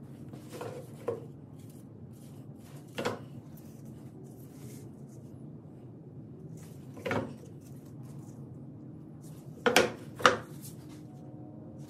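Scattered short knocks and clacks of hard objects being handled and set down, twice in quick pairs and the loudest pair near the end, over a low steady hum.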